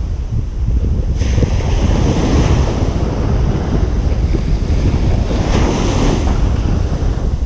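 Ocean surf breaking and washing up a beach, with heavy wind rumble on the microphone. The hiss of breaking water swells up about a second in and again between five and six seconds.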